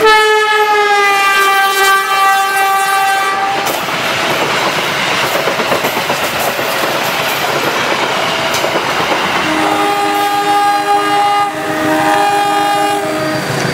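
A diesel locomotive horn sounds for about three and a half seconds, dipping slightly in pitch at the start. Then a passing passenger train's wheels clatter and rush over the rails. About ten seconds in, a horn sounds a chord of several notes for about three and a half seconds.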